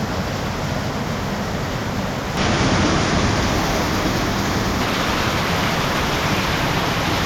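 Heavy rain falling in a steady hiss, which steps up suddenly and gets louder about two and a half seconds in.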